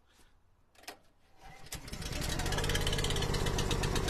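Eastonmade log splitter's gas engine starting about a second and a half in and settling into a steady run, cold and being left to warm up.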